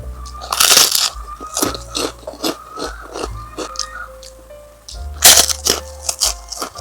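Close-miked crunching of raw vegetables being bitten and chewed: a loud crunchy bite about a second in and another about five seconds in, with smaller chewing crunches between. Background music plays underneath.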